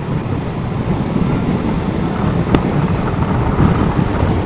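Steady wind and road noise from a motorcycle on the move, heard at the rider's helmet microphone, with one short sharp click about two and a half seconds in.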